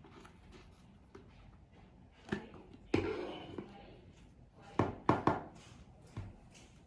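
Six or so hard knocks and clunks, as from a vacuum cleaner's plastic dust cup and HEPA filter being handled and tapped. Two of them come close together about five seconds in.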